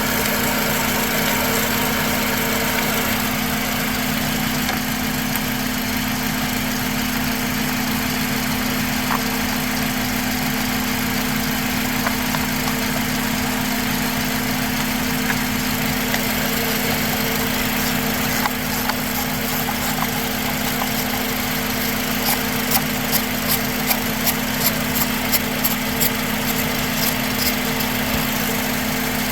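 2004 Honda Accord's engine idling steadily. Near the end, a run of quick light clicks, about two or three a second, sounds over it for several seconds.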